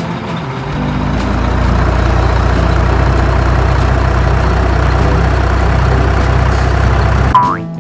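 Heavy truck engine running, a deep, steady rumble that swells in about a second in and cuts off abruptly near the end, followed by a short rising tone.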